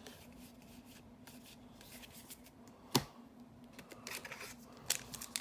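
Magic: The Gathering trading cards being handled and flipped through, a soft sliding of card stock, with one sharp click about three seconds in.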